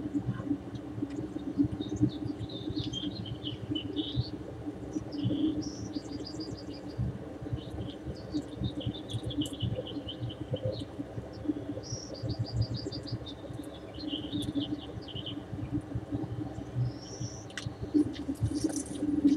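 Songbird singing the same phrase over and over, a rapid high trill followed by lower descending notes, about every six seconds, over a steady low background hum.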